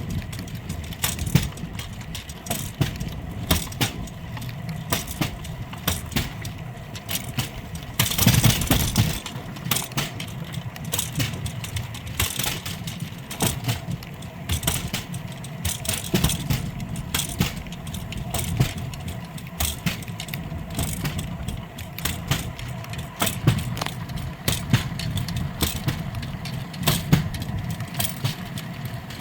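Rail bike's steel wheels rolling along old track, a steady rumble with frequent irregular clicks and rattles from the wheels and frame. A louder rushing burst comes about eight seconds in.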